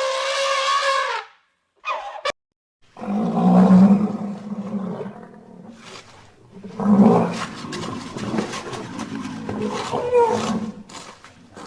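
A big cat roaring and growling in deep, rough bouts from about three seconds in, loudest twice, about half a second and four seconds into the roaring. It is preceded at the start by a short pitched call that ends about a second in.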